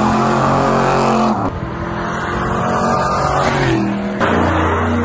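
A montage of clips of big Ford sedans' V8 engines: first an engine held at high revs while the rear tires spin and smoke in a burnout. About a second and a half in it cuts to another clip of a car running with a drop in revs, and near the end to a third clip with an engine held steady at high revs.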